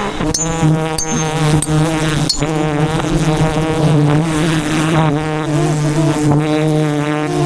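Swarm of wild honeybees buzzing loudly close around the microphone: a dense, continuous drone whose pitch wavers as bees pass.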